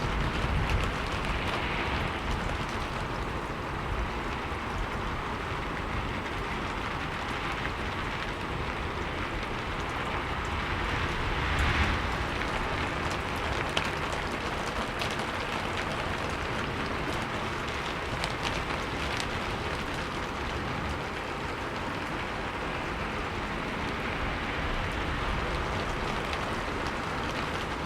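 Steady rain falling, an even hiss of drops, swelling briefly about twelve seconds in.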